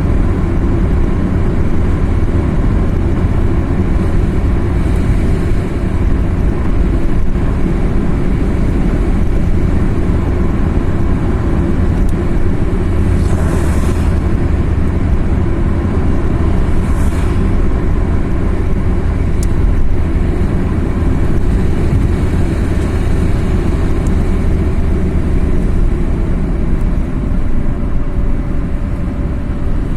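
A car driving along a highway: steady engine and tyre rumble, with brief whooshes about 13 and 17 seconds in.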